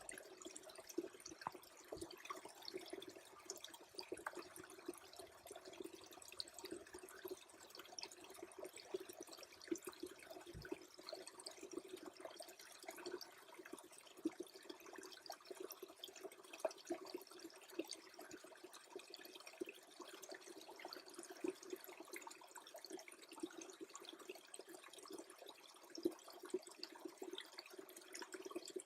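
A small stream freezing over, trickling faintly with a steady run of tiny drips and ticks.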